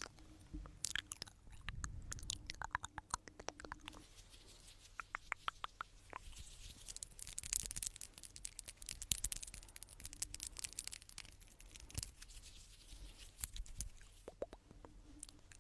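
Close-miked ASMR clicking and scratchy rubbing: a dense run of small sharp clicks and crackles, with a stretch of steadier scratching in the middle.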